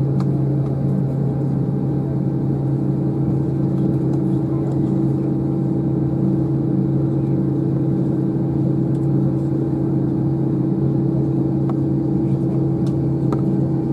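Steady hum inside the cabin of a parked Airbus A321, an unchanging drone with a low and a higher tone, with a few faint clicks.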